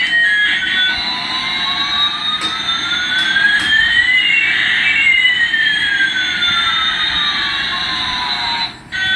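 Electronic sound effect from a toy's small speaker: two tones glide across each other, one rising while the other falls, crossing about halfway through, then cut off sharply near the end.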